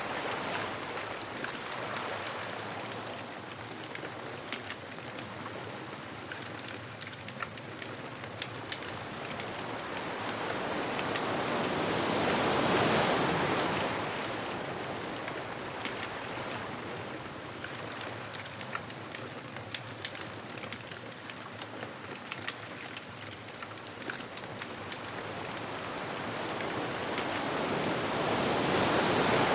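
Ocean waves washing ashore, swelling twice: once about halfway through and again near the end. A bonfire crackles throughout.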